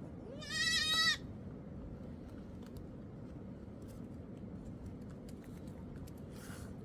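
A sheep bleats once near the start, a high, wavering call of under a second. After it come only faint scattered clicks over a low steady background.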